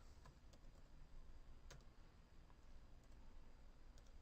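Near silence: faint room tone with a few scattered, faint clicks, typical of computer keys and mouse being used to log in.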